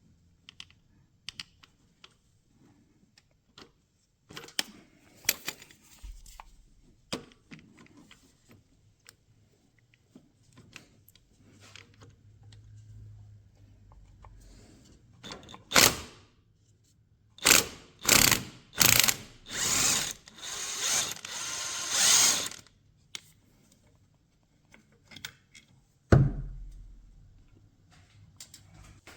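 Ratchet wrench clicking in a run of quick strokes as 17 mm engine mount bolts are worked loose, amid small clinks of tools and metal parts. Near the end comes one heavy clunk.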